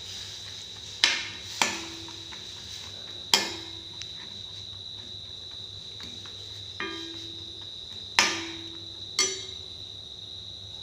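A metal spatula knocking against a metal kadai as noodles are stirred in it: six sharp knocks at uneven intervals, some ringing briefly. A steady high cricket trill runs underneath.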